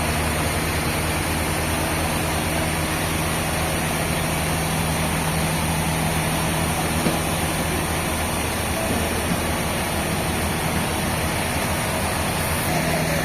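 Sawmill machinery running steadily: an even engine hum with a haze of mechanical noise over it that holds without change.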